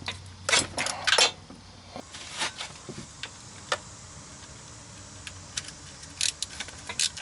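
Scattered metallic clinks and clicks of a socket wrench and loose bolts as the 10 mm bolts holding an engine's lower timing cover are worked off, in short clusters with pauses between.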